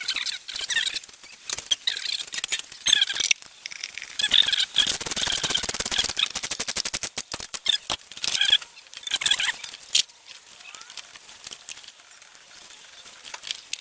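Hand work on an engine: metal tool clicks and knocks with squeaks, and a fast, even run of clicks lasting a couple of seconds about five seconds in.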